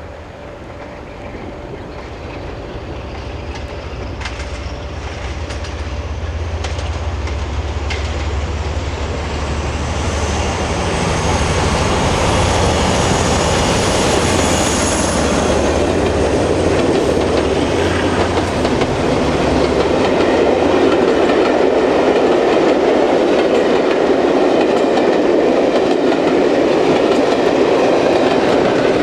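A train running on the rails, growing louder over the first dozen seconds and then staying loud, with a low engine drone that fades out about two-thirds of the way through. A faint high-pitched whine rings out in the middle.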